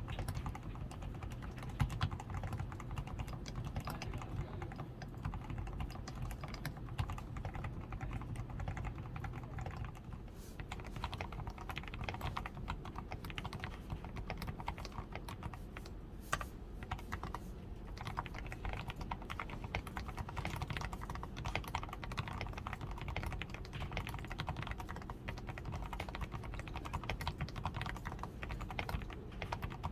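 Continuous steady typing on a DAREU A87 Pro mechanical keyboard with lubed switches, tape-modded PCB and XDA keycaps: a dense run of muted, deep-toned keystroke clicks.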